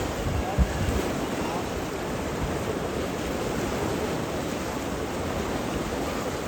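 Steady rushing water noise, with a low thump about half a second in.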